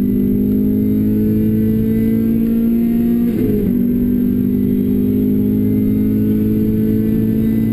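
Renault Clio RS engine with a Bastuck aftermarket exhaust pulling hard, its note climbing slowly. About three and a half seconds in, a quick gear change drops the pitch, then it climbs again.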